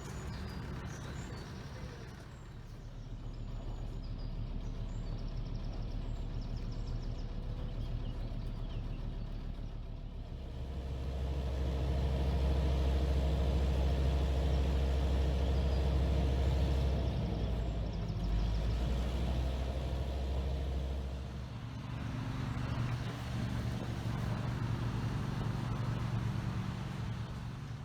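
A heavy truck's diesel engine running steadily, growing louder about ten seconds in and easing back about eleven seconds later.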